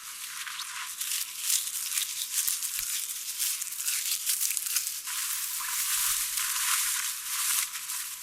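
Dry plant material being handled and crushed: a continuous papery rustling and crackling with irregular crunches.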